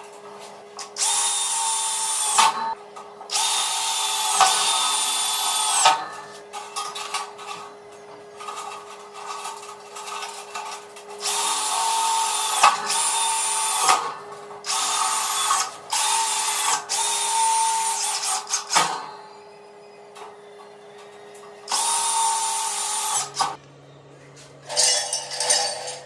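Electric power drill run in about six short bursts of one to four seconds, each whining at speed and winding down in pitch as the trigger is released. A faint steady hum sounds underneath.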